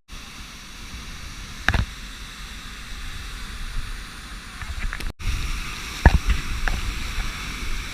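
Steady rush of a waterfall, with a low rumble of wind or handling on the microphone and two sharp knocks, about two seconds in and about six seconds in. The sound cuts out briefly just after five seconds.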